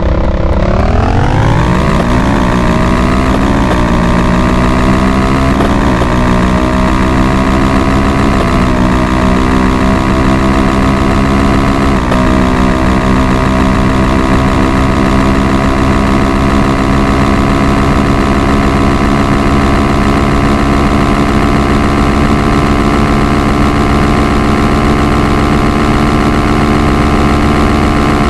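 Motorcycle engine pulling at full throttle. Its pitch climbs steeply at first, with several short dips and re-climbs over the first dozen seconds, then holds at a steady high pitch.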